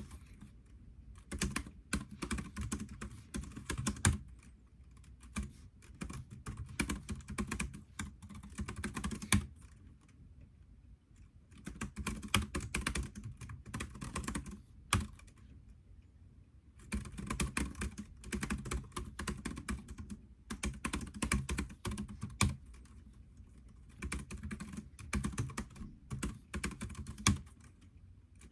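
Typing on a computer keyboard: rapid runs of key clicks, broken by short pauses of a second or two.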